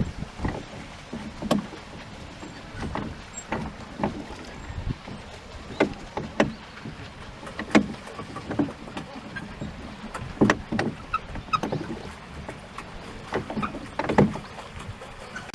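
Water slapping and splashing against the bow of a rowboat moving across a pond, in irregular sharp splashes and knocks about once or twice a second.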